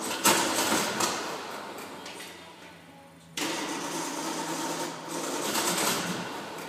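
Aston Martin DB2/4's straight-six being cranked on the starter in two attempts: a burst of cranking that starts abruptly and fades away, then a second one about three and a half seconds in, without the engine settling into a steady run.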